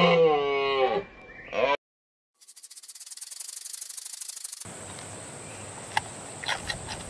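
A cow's moo ends about a second in. After a short silence comes a high, fast-pulsing hiss of about two seconds. Then a giant panda chews bamboo, rasping and crunching with a few sharp cracks, over a steady high whine.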